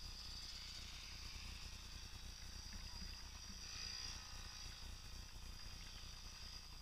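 Faint, steady buzz of a Yamaha PW50's small two-stroke engine, with a low hum underneath.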